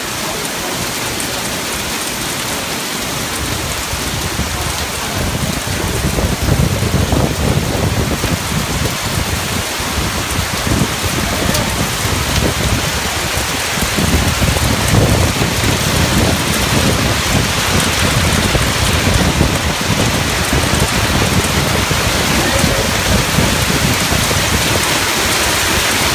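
Heavy rain pouring down on pavement and vehicles in a thunderstorm, a dense steady hiss that grows louder after about five seconds, with a low, irregular rumble underneath.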